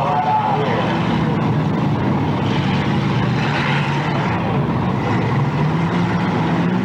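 Demolition derby cars' engines running and revving, their pitch wavering up and down over a steady rumble.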